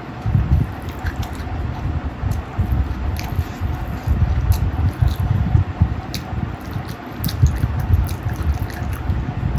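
Close-miked eating: wet chewing and lip-smacking in quick, irregular pulses, with scattered small sharp clicks.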